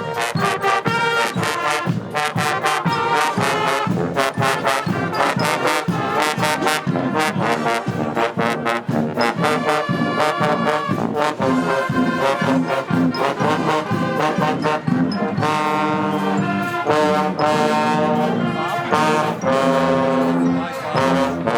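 Guggenmusik band playing loud brass (trombones and trumpets) over a steady drum beat. In the last few seconds the brass holds longer chords and the drumming thins out.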